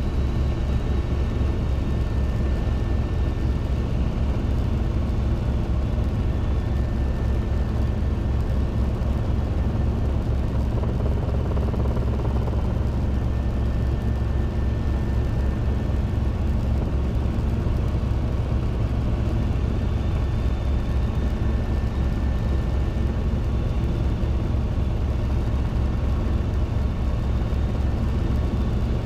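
Robinson R22 helicopter in flight: its piston engine running steadily under the rapid, even beat of the main rotor.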